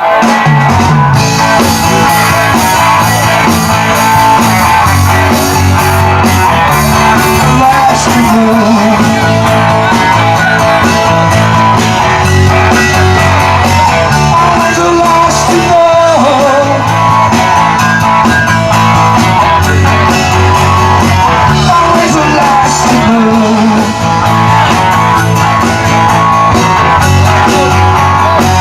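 Live rock band playing an instrumental passage with electric guitar, bass and drums, and some singing.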